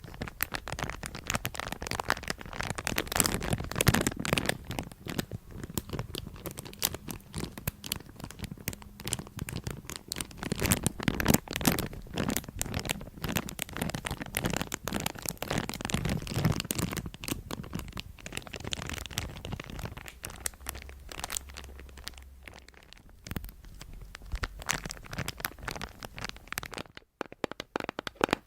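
Close-miked ASMR handling sounds: dense scratching and crinkling made up of many small crackling clicks, thinning out and getting quieter about twenty seconds in, with a brief near-silent gap near the end.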